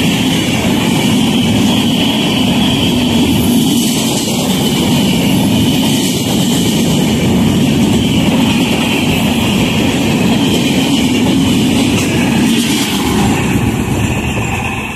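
Coaches of an express train running through the station at high speed close by: a loud, steady rush and rumble of wheels on the rails. It eases slightly near the end as the tail of the train passes.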